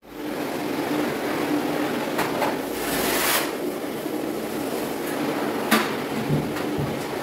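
Vacuum cleaner running steadily over the floor with a constant hum, and a few short clicks and knocks from the nozzle.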